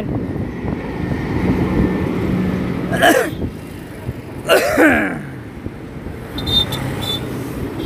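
Passenger train hauled by an electric locomotive passing close below, with a steady rumble of coaches rolling by. Two short sounds that fall quickly in pitch come about three and four and a half seconds in.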